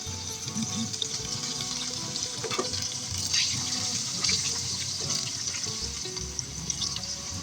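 Potato sticks deep-frying in hot oil: a steady sizzle dotted with small crackles, with a few louder bursts of crackling partway through.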